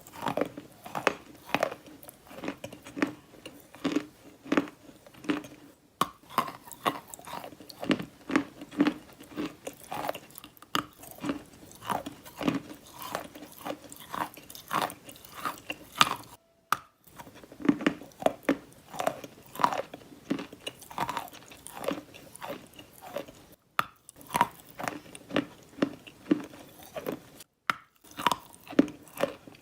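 Wet, sandy, grainy crunching, one crunch after another at about one or two a second. It cuts out abruptly four times for an instant where the clips are joined.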